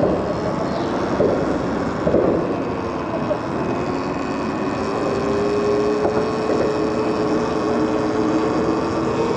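Electric motor of a moving e-bike whining at a steady pitch that creeps slightly higher about a third of the way in, over a constant rush of wind and road noise.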